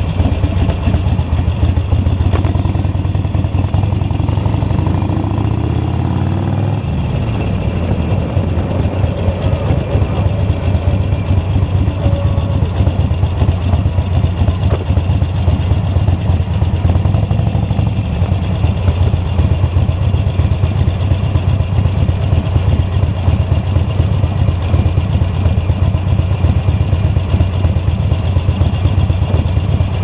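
Harley-Davidson XL1200 Nightster's air-cooled 1200 cc V-twin engine running. Its note rises and falls over the first several seconds as the bike rides through a turn, then it settles into a steady idle as the bike waits in traffic.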